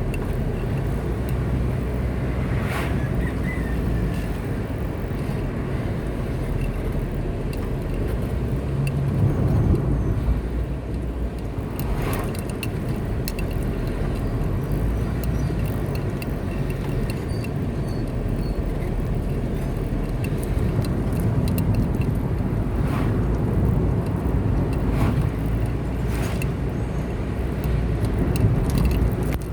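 Car driving at a steady pace: a continuous low rumble of engine and tyres on the road, broken by a few brief clicks or knocks.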